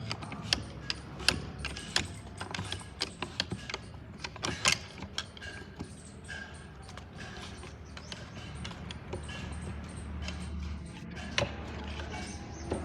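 Tools and metal parts clicking and clinking as they are handled. The clicks come in a quick run through the first five seconds, then only now and then, over a low steady hum.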